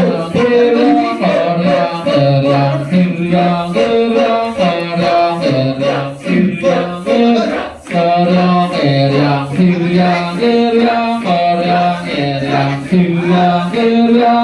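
Balinese Kecak (Cak) chorus: many voices imitating a gamelan orchestra with their mouths, a melody of held notes stepping up and down over quick rhythmic vocal sounds, with a brief lull about eight seconds in.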